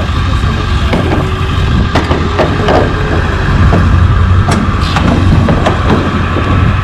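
An engine running steadily with a low rumble, with a few knocks and clatters over it.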